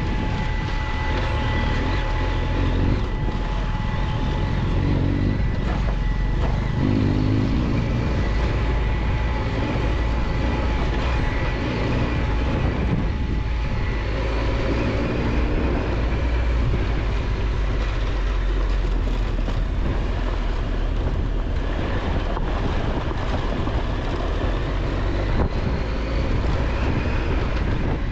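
Triumph Tiger 1200 XCX's three-cylinder engine running steadily while riding a rough dirt road, under a heavy low rumble and a constant noisy hiss of wind and road.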